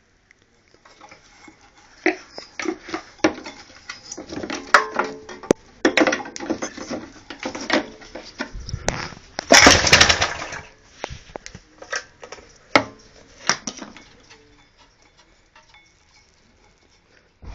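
Irregular metallic clinks and knocks, like tools and metal parts being handled, with a louder rasping burst about nine seconds in that lasts a second or so.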